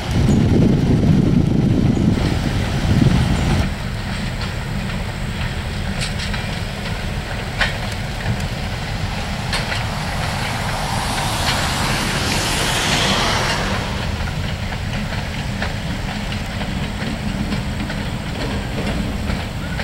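Passenger coaches of a steam excursion train rolling past over the rails, the wheels clicking over rail joints every second or two. A heavy low rumble fills the first few seconds, and a hiss swells and fades about halfway through.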